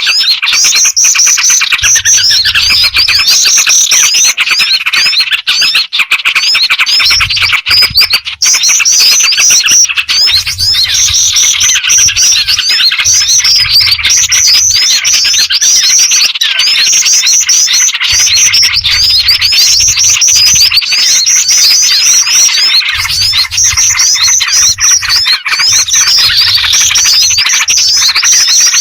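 Bird-luring recording: a dense mix of songbird calls layering the black-winged flycatcher-shrike (jingjing batu) with small-bird chatter and yellow-vented bulbul (trucukan), chirping and twittering without pause. Low thuds come and go in spells underneath.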